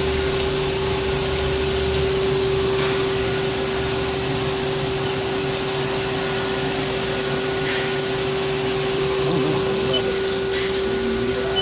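Haas SL20 CNC lathe running: a steady whine over an even hiss of machine noise, with a low hum that drops out about a second in.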